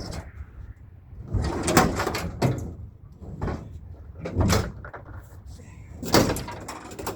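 Scrap metal being handled and loaded onto a truck: a series of bangs and scraping clatters, with a cluster about a second and a half in, single hits after that, and a loud bang near the end.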